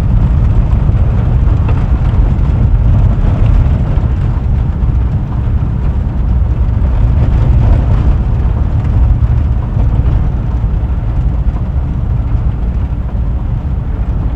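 Volkswagen Kombi driving along the road: a steady, loud low rumble of engine and road noise.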